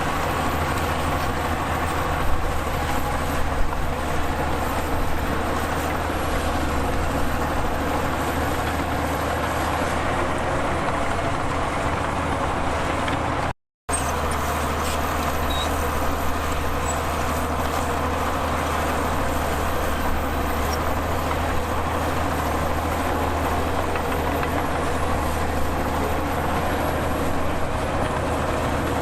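Heavy diesel earthmoving machinery running steadily with a constant low engine hum, broken by a split-second dropout about halfway through.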